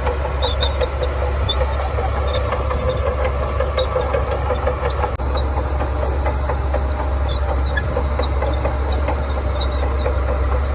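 Heavy diesel engine of earthmoving machinery running steadily, with a brief dropout a little after five seconds in.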